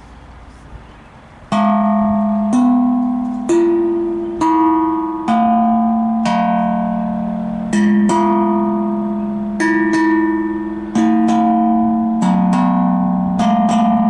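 Tuned outdoor drum on a wooden base, struck with sticks. It plays a slow run of ringing pitched notes, about one a second, starting about a second and a half in.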